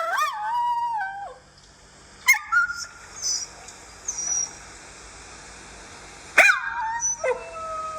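A dog whining and yipping in high, wavering calls: a long whine at the start, a short yip about two seconds in, and another long whine near the end.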